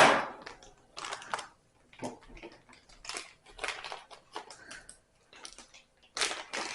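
Packaging crinkling and rustling in short, irregular bursts as small replacement parts are unwrapped by hand, loudest at the very start.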